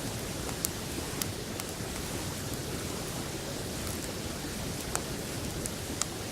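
Open wood campfire crackling, with a handful of sharp pops from the burning wood, over the steady rush of a river.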